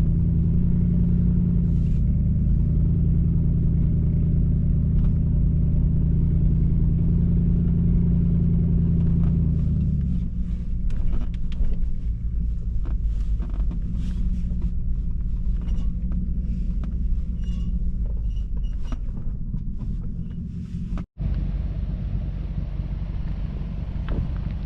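Vehicle engine droning steadily under load, heard from inside the cabin on a dirt trail. About ten seconds in it eases off to a lower drone, with scattered clicks, knocks and rattles from the truck over the rough ground. Near the end the sound cuts out for an instant.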